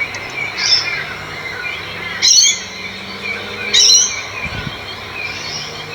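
Birds calling: a steady run of small, high chirps, with three louder, sharper calls about a second, two and a half and four seconds in.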